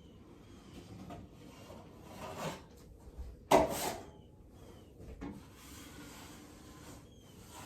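Scraping and rubbing of a drywall tool on the wall, a few separate strokes with the loudest about three and a half seconds in, typical of a taping knife spreading joint compound.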